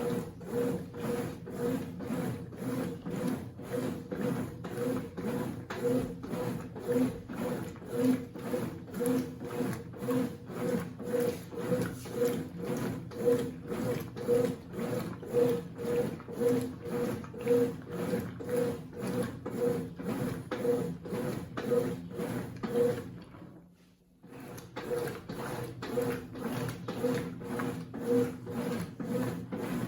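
Consul 8 kg washing machine agitating a load with a bedspread in it: a rhythmic whirring and churning at about two strokes a second. The motor stops briefly about three-quarters of the way through, then starts again.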